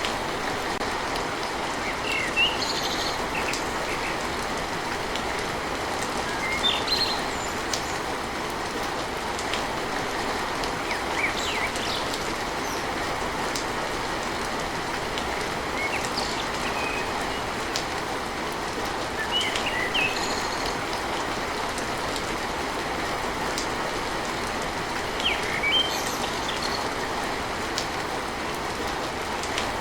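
Steady rain drumming on a tin roof, an even rushing hiss, with scattered short high chirps now and then.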